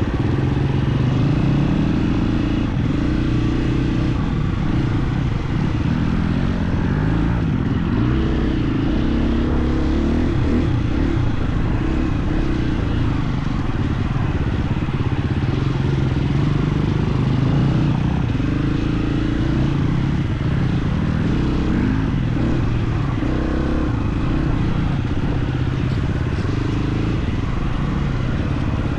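KTM 350 XC-F single-cylinder four-stroke dirt bike engine running under throttle, its note rising and falling continuously.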